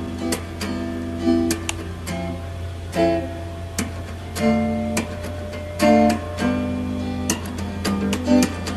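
Background music: an acoustic guitar playing strummed and plucked chords.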